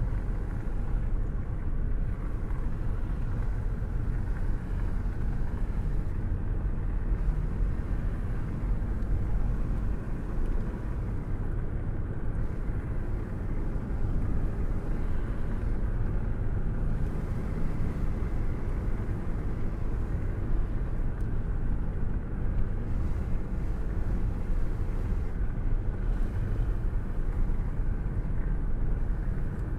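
Steady rain with a deep, continuous low rumble of distant thunder; no sharp cracks, just an even wash of sound weighted toward the low end.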